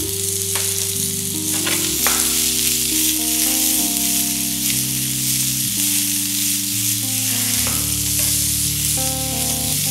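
French beans with green chilies and cumin sizzling in hot oil in a frying pan over a gas flame as the pan is tossed and stirred, with a few sharp clicks in the first two seconds. Soft background music with long held low notes plays underneath.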